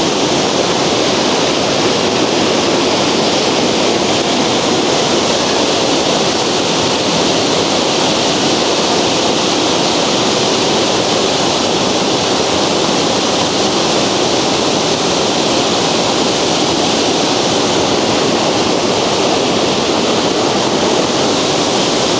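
Rainbow Falls waterfall pouring: a loud, steady, even rush of falling water.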